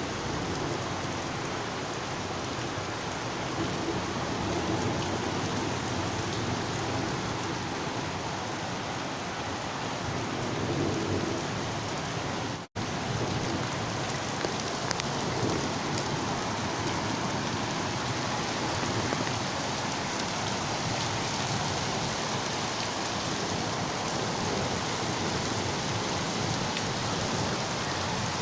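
Heavy rain pouring down steadily, a dense even hiss of rain on surfaces. It cuts out for an instant about halfway through.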